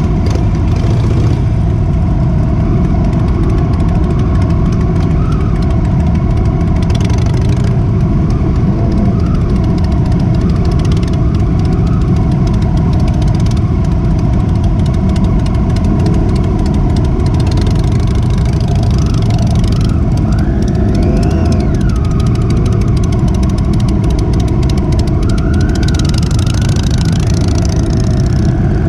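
Motorcycle engine running steadily under a heavy low rumble of wind on the microphone, with a few brief rises and falls in engine pitch in the second half.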